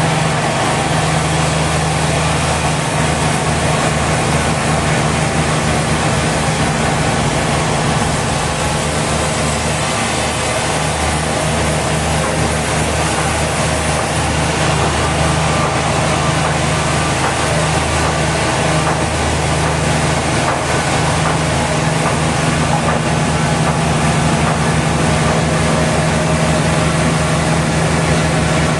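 Sawmill machinery running steadily: a loud engine-like drone with a low hum under a constant hiss, unchanging throughout.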